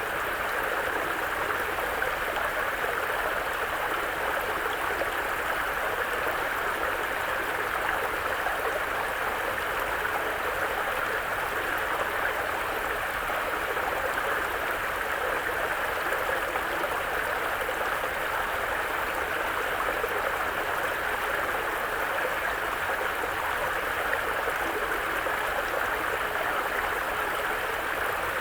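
Mountain brook flowing steadily over rocks, an even babbling rush of water with no change.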